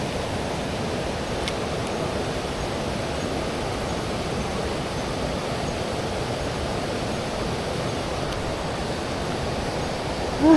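Steady rush of flowing river water, an even noise with no rhythm.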